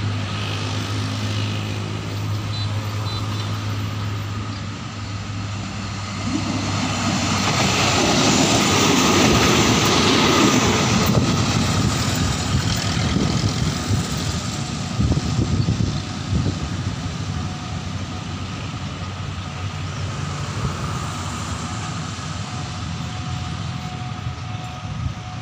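A low steady engine hum, then a diesel railcar passing on the track: a rush of engine and wheel noise that swells, peaks and fades, with uneven rumbling as the carriages roll by.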